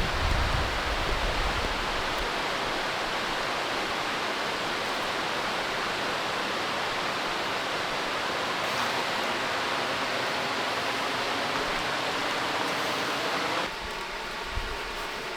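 Waterfall rushing steadily. Near the end it cuts to a quieter, steady hum.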